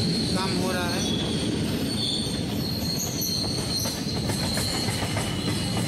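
Passenger train running along the track, heard from beside the moving coach: a steady rumble of wheels on rails, with a high, steady wheel squeal coming in about a second and a half in.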